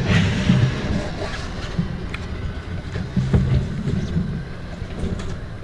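Wind buffeting the microphone aboard a sailboat, an uneven low rumble over a steady rushing haze, with a few light knocks.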